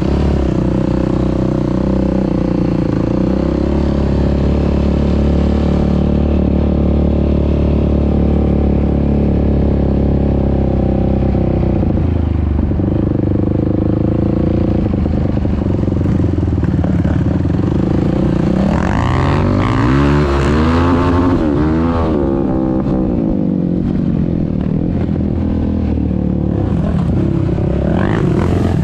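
ATV engine running at a steady idle, its pitch rising and falling for a few seconds about two-thirds of the way through as the throttle is blipped, then settling back to idle.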